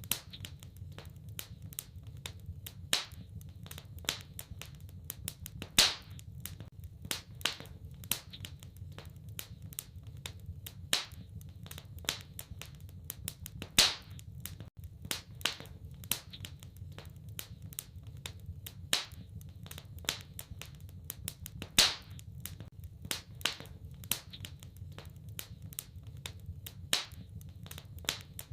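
Wood fire crackling in a fireplace: many small irregular snaps, with a louder pop every few seconds over a low steady rumble.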